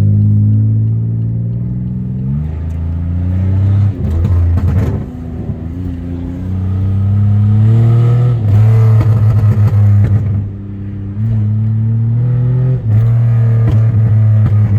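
Pontiac Grand Prix GT's 3.8-litre V6 with catless exhaust, running loud under acceleration; its pitch climbs and drops back several times as the gears shift.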